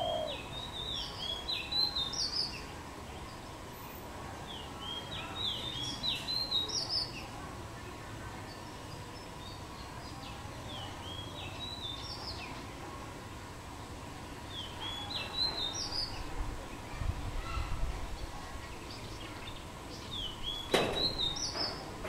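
Outdoor birdsong: a small bird repeating a short, high chirping phrase every four to five seconds over steady background hiss. Near the end comes a single sharp knock.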